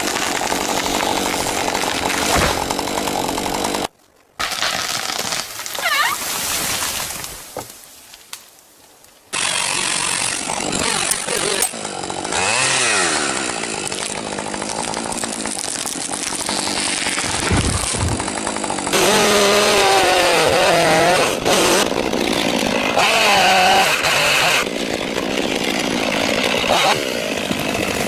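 Chainsaws running and cutting wood, the engine pitch rising and falling as they rev, across several spliced clips. The sound cuts out briefly about four seconds in and fades lower for a couple of seconds before returning.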